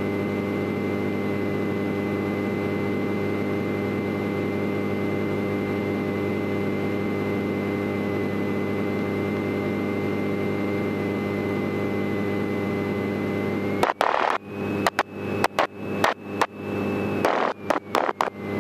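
Cessna 172 Skyhawk's piston engine running steadily at low power while taxiing, with a thin high whine over it. About fourteen seconds in, a run of sharp clicks and brief dropouts crackles over it for about four seconds.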